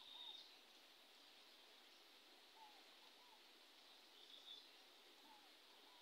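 Faint bird calls: a pair of short sliding notes repeated every few seconds, with a brief high chirp at the start and another about four seconds in, over a faint outdoor hiss.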